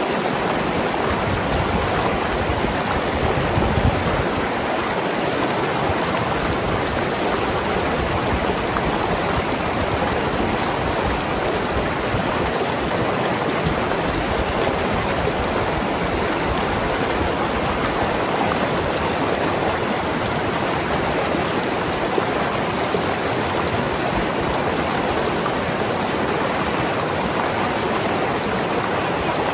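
Mountain river flowing, a steady rush and gurgle of water.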